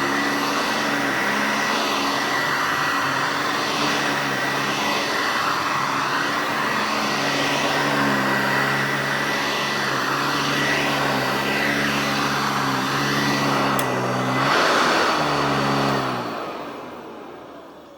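Eureka Heavy Duty Commercial C2094 upright vacuum running steadily with a whooshing hiss and a high motor whine. Its pitch dips and recovers briefly near the end, then it is switched off and winds down over the last two seconds.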